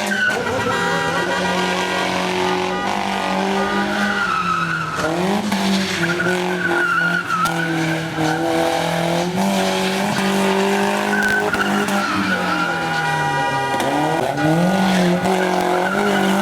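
A stunt vehicle's engine running hard at high revs. Its pitch dips and climbs again about five seconds in and again near the end, with a wavering squeal above it.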